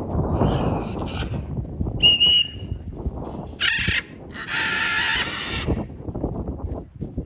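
Wind rushing on the microphone, with several harsh, high calls from free-flying pet birds: a short whistle-like note about two seconds in, and a longer call a little past the middle.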